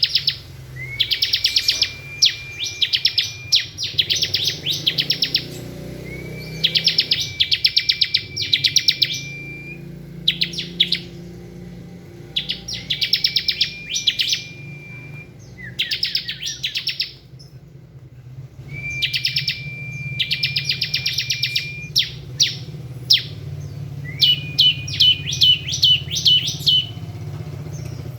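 Bar-winged prinia (ciblek) singing its 'ngebren' song: bursts of very rapid, rattling notes, many of them ending in a long, level whistle, repeated over and over with short gaps. A steady low hum runs underneath.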